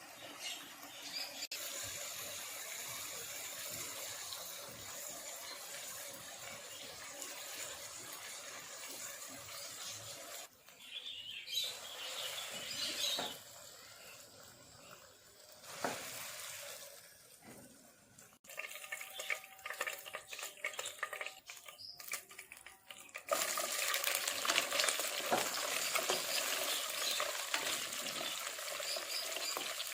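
Kitchen cooking sounds in several abruptly cut stretches: a steady hiss, with scattered short knocks and clicks in the middle part and a louder steady hiss near the end.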